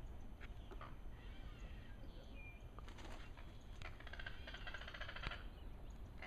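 Birds calling: repeated short arched call notes. About three seconds in, a fast, dry chattering rattle runs for roughly two seconds.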